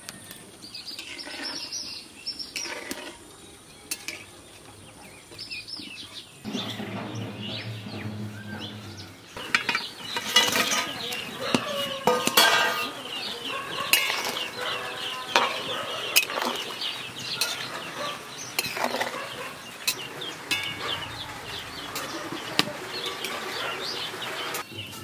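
Climbing perch curry cooking in a wok: from about ten seconds in, dense crackling and bubbling of the hot, oily gravy, with clinks of a metal spatula against the pan. The first seconds are quieter, with a few light clicks.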